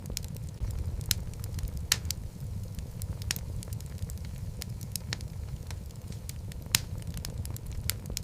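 Wood fire burning in a fireplace: a steady low rumble of flames with irregular crackles and a few sharper pops from the burning logs.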